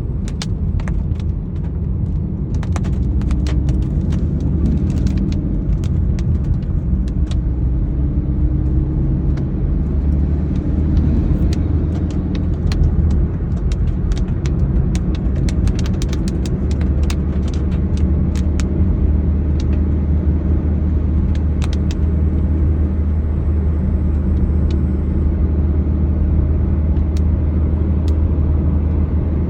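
Steady low rumble of a vehicle on the move, with many scattered sharp taps that fit raindrops striking nearby surfaces in the rain.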